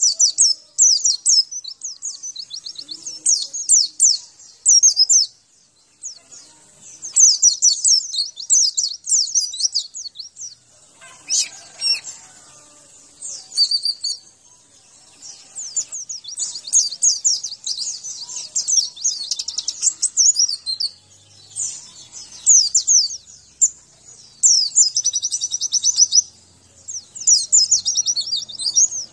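White-eye (pleci) singing: rapid, high twittering song phrases in bursts of a few seconds, separated by short pauses.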